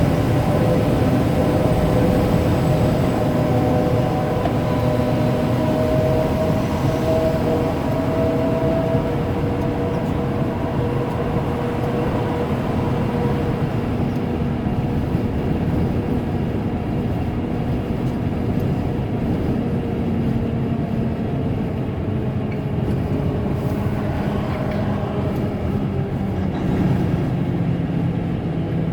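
Steady drone of a tractor-trailer's diesel engine and road noise inside the cab while driving, with a few engine tones that drift slowly in pitch.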